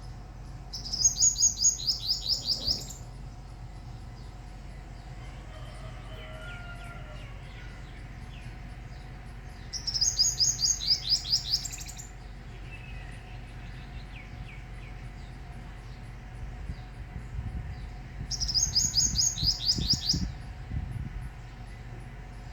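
A small bird singing: three bursts of rapid, evenly repeated high notes, each about two seconds long, with a few soft chirps between them.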